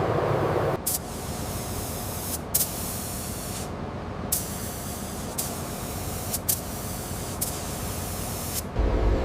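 Pressurized spray hissing in five bursts of one to two seconds each, with short breaks between them.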